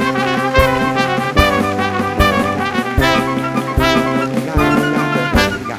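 Live band music starting abruptly: held, horn-like chords with a deep bass note over a drum beat about every 0.8 seconds.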